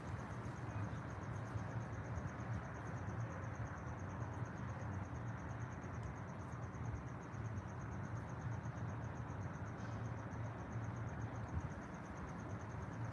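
An insect trilling steadily, a high, rapidly pulsing note that never breaks, over a steady low outdoor background noise.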